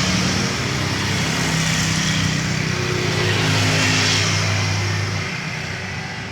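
Heavy motor vehicle passing close by: a steady low engine drone with tyre and road noise, easing off after about five seconds.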